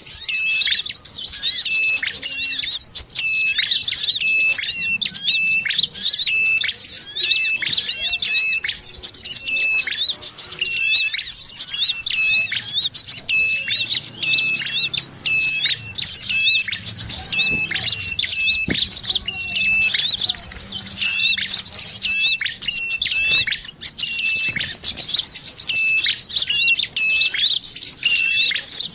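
Bird-trapping lure recording: dense, rapid, high-pitched chattering and chirping of small birds, a scolding 'sogon' mix of red-headed prenjak and brown-throated sunbird calls, with a short steady note repeating about every half second. It is meant to draw small birds in.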